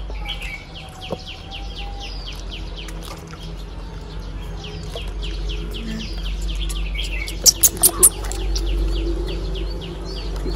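A small bird chirping in quick runs of short, falling chirps, about five a second, with brief gaps. A few sharp clicks come about three-quarters of the way through.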